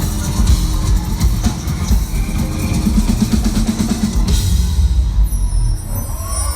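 Live band playing an instrumental intro, with drum kit and bass; a cymbal crash about four seconds in.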